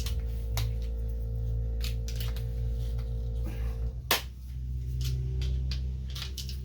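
A few light clinks and knocks of metal tools and loose bumper hardware on a Classic Mini's front end, one sharper knock about four seconds in. Under them runs a steady low hum with sustained tones that shifts about four seconds in.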